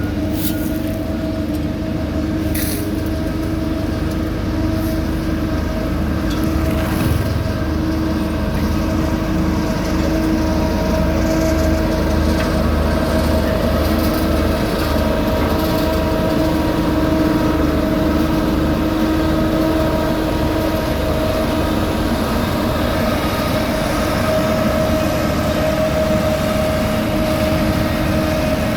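Road-paving machinery running steadily: a diesel engine with a low rumble and a constant whine over it.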